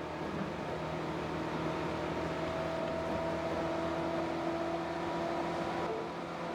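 Tobu 8000 series electric train running, heard from inside the car: a steady hum of several tones from the traction motors and gears over the rumble of wheels on track.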